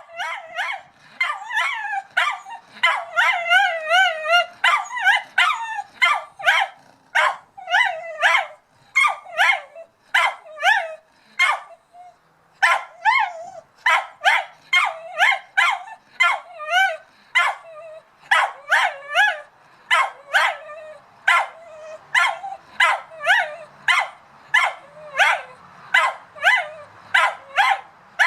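English cocker spaniel barking at a cat in a long, rapid run of high-pitched barks, about two a second. Wavering, whining yelps come in among the barks a few seconds in.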